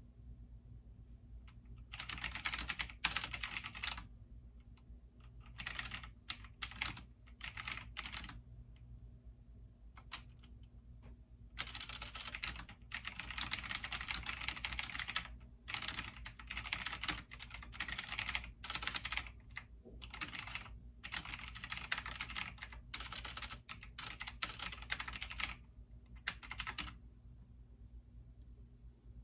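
Computer keyboard typing in uneven spurts of a few seconds with short pauses, then a long, nearly continuous run of typing through most of the second half.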